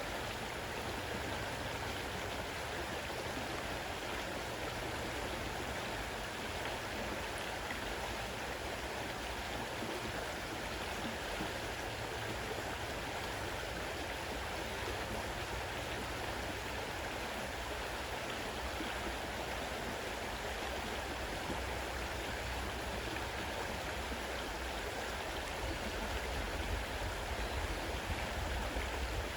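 Fast-running river water rushing steadily, with a few low bumps near the end.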